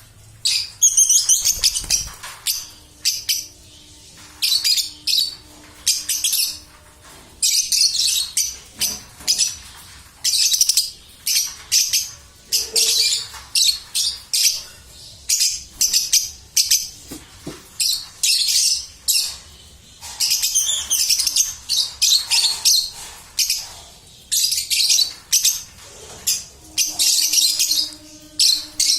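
Baby lovebirds chirping: high calls in short bursts that repeat over and over.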